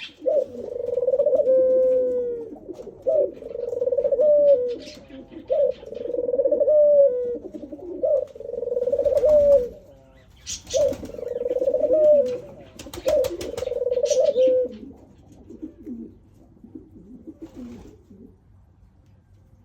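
A bird calling over and over: about six long, low, even-pitched calls of a second or two each, then fainter calls that fade out after about fifteen seconds.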